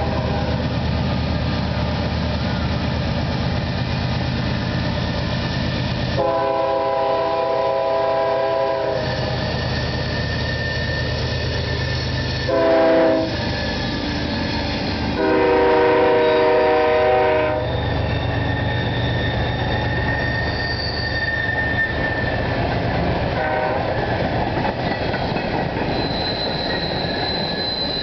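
CSX diesel freight locomotive passing with its engine rumbling, sounding its air horn: a long blast, a short one and another long one, the end of the grade-crossing signal. Then loaded covered hopper cars rolling by with rail clatter and faint wheel squeal.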